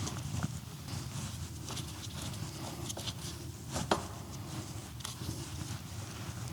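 A few light, irregular clicks and taps of metal parts and tools being handled while the crash-bar bolts are fitted, over a low steady room hum.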